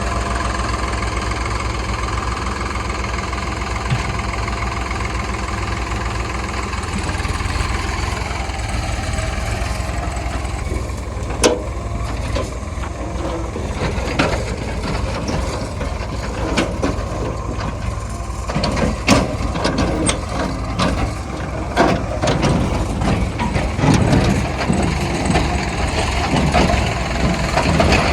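Heavy diesel engine running steadily, with a series of sharp knocks and clanks starting about eleven seconds in and coming more often toward the end.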